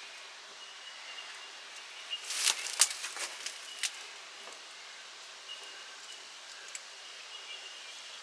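Outdoor background hiss with faint, intermittent high chirping, broken about two seconds in by a short run of sharp clicks and knocks lasting about two seconds, the loudest a single sharp click near the middle.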